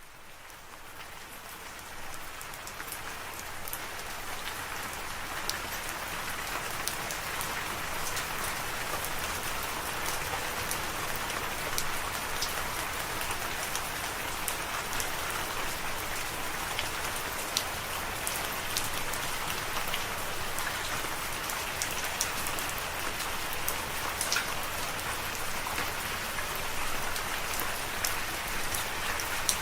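Steady rainfall with individual drops ticking sharply through it, fading in over the first several seconds and then holding level.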